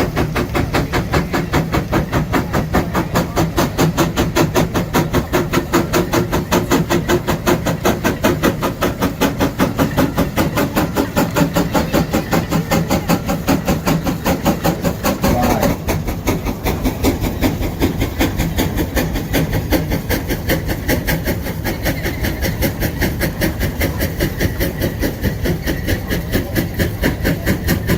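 A 150 hp Case steam traction engine working hard under load, its exhaust chuffing from the stack in a fast, steady beat of about four to five puffs a second.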